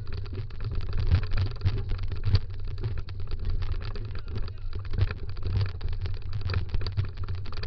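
Dog scooter rolling fast over a rough dryland trail: a constant deep rumble of wheels and ground with a rapid, irregular clatter of the frame.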